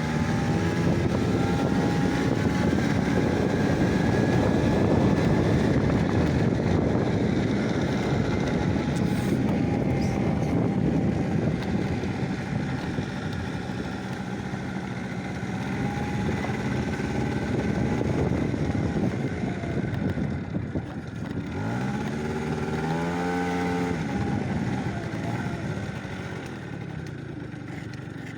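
A motor vehicle engine running steadily under a dense rumble, revving up and back down once about three quarters of the way through.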